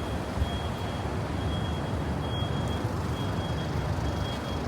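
Steady low rumble of street traffic and vehicle engines, with a faint high beep repeating about once a second.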